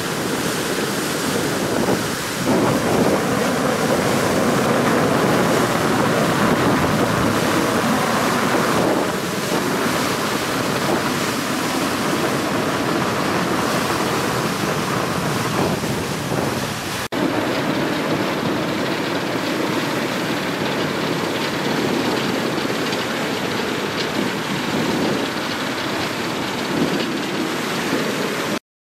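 Steady roar of rushing water, likely a waterfall, with wind on the microphone. The sound changes abruptly about two-thirds of the way through and cuts out briefly near the end.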